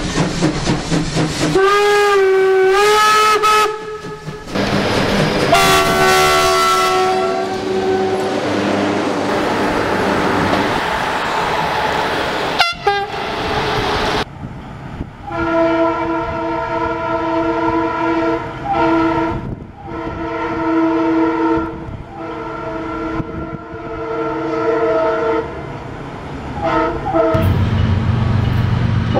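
Train air horns (Makrofon) sounding in a string of clips over running train noise. There is a short blast about two seconds in and a blast near six seconds that slides down in pitch. From about halfway through, a multi-tone horn sounds in a row of long blasts with short breaks between them.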